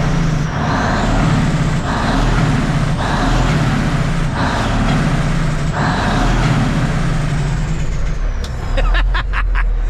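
Diesel engine of a 1989 Kenworth K100E cabover held at high revs, with a turbo whistle rising as it spools up and the engine note surging every second or so. Near the end the revs fall away.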